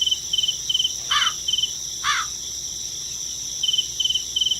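Insects chirping: a steady high-pitched drone with runs of quick chirp pulses at about three to four a second, broken by two short falling calls around one and two seconds in.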